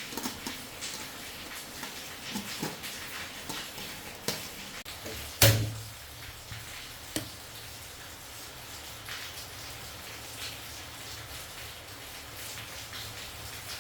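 Kitchen handling noises while cooking: scattered light clicks and taps of utensils and dishes, with one loud knock about five and a half seconds in.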